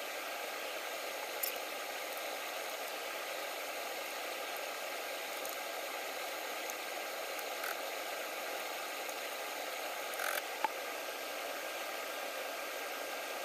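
Chicken breast strips sizzling steadily in olive oil in a stainless steel pan, with a few light clicks and knocks from a wooden spatula stirring them.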